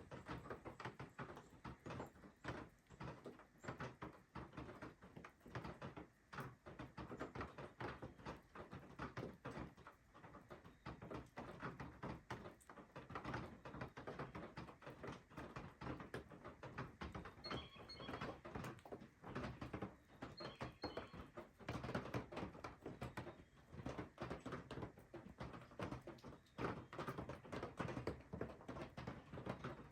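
Snow meltwater dripping and pattering in quick, irregular taps, with a small bird chirping briefly twice about two-thirds of the way in.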